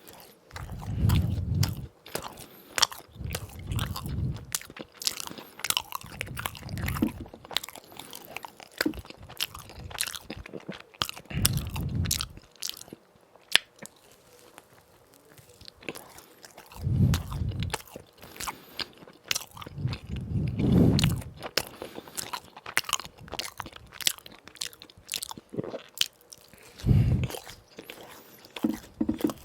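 Person biting and chewing crispy fried donuts, with many sharp crunches and heavier low chewing sounds every few seconds.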